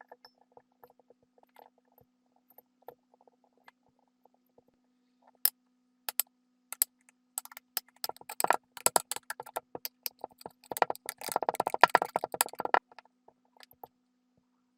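Kinetic sand being worked close to the microphone, giving sparse crisp crackles and clicks that grow denser, with a burst of dense crumbling crackle near the end. A faint steady hum runs underneath.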